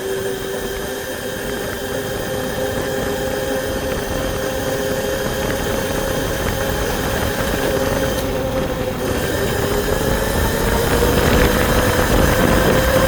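Dirt bike engine running steadily while riding, its pitch slowly climbing and the overall noise growing louder toward the end.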